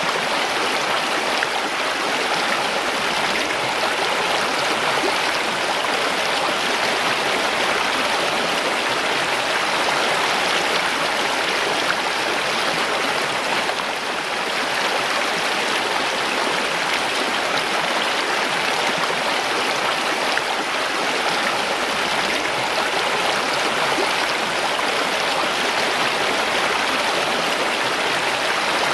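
Mountain stream: water rushing and splashing over rocks, a steady even rush.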